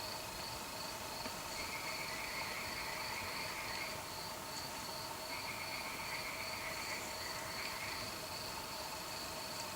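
Warm summer-night chorus of crickets and frogs: a steady high cricket trill over steady lower trilling, with a middle-pitched trill coming in for about two seconds at a time, twice.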